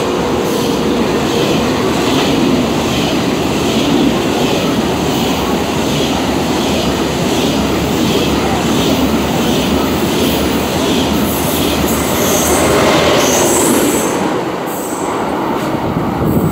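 First-generation KTX high-speed train running through a station without stopping: a loud steady rush of wheels on rail, with a regular clatter about twice a second as the cars go by. The sound eases a little near the end as the last cars pass.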